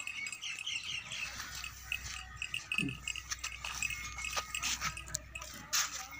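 Small birds chirping over and over in short high notes, with a brief low sound about three seconds in and scattered clicks and handling noise later on.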